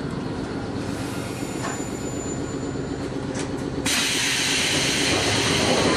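Electric railcar standing at a station platform, heard from inside: a steady low hum of its equipment with a few light clicks, then a little under four seconds in a sudden loud hiss of air starts and keeps going.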